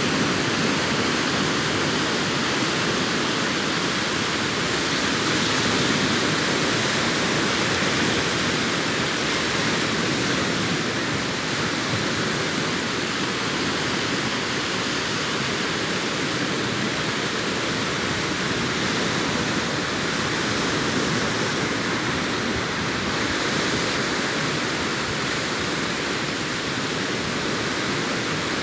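Sea surf breaking on a beach, heard as a steady, even wash of noise with no separate breakers standing out.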